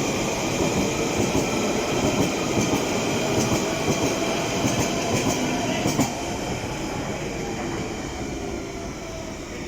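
London Underground Central line train (1992 stock) moving past on the rails, its motors whining steadily over the wheel rumble. A few clicks come from the wheels around the middle, with a sharp one about six seconds in, and then the sound fades.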